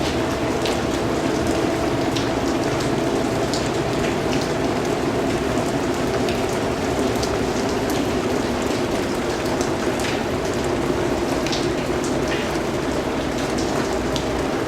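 Steady, even rain, with individual drops landing close by now and then as short, brighter ticks over the constant wash.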